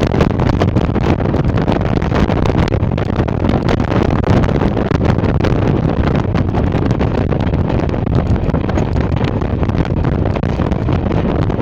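A steam-hauled passenger train running past, with a loud, steady rumble and rattle from its wheels and carriages. Wind buffets the microphone throughout.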